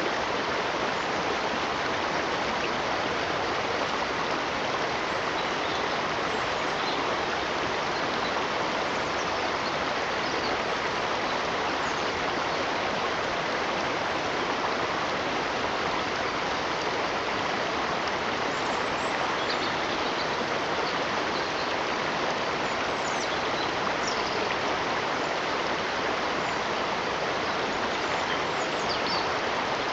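Flowing stream water: a steady, unbroken rushing.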